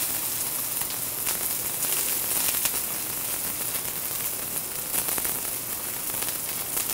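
Ahi tuna steak searing in a very hot frying pan: a steady sizzle with scattered small pops and crackles.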